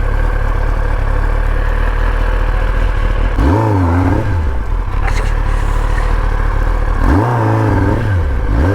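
Superbike engine idling, revved twice, each rev rising and falling in pitch over about a second.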